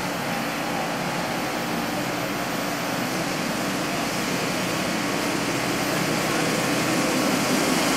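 Diesel locomotive hauling a passenger train as it approaches: a steady engine and rolling rumble that grows gradually louder.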